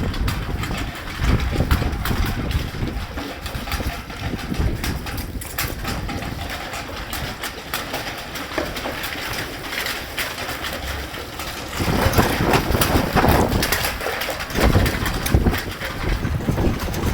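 Gusty wind buffeting the microphone, a rumbling noise that swells and falls, growing louder for a few seconds about twelve seconds in.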